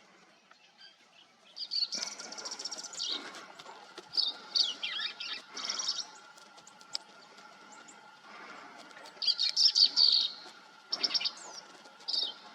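Green-tailed towhee singing: several separate song phrases of clear notes and fast trills, a second or more apart, the loudest about ten seconds in.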